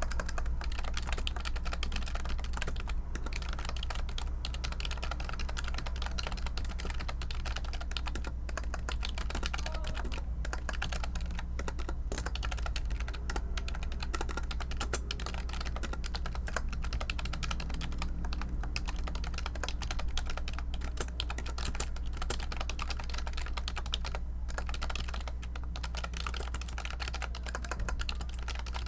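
Continuous fast typing on a computer keyboard: dense, rapid key clicks with a few brief pauses, over a steady low hum.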